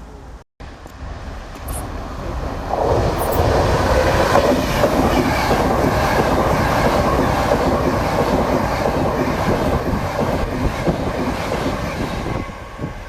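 A train passing close by through a station. The sound builds over the first couple of seconds, stays loud for about nine seconds, then dies away near the end.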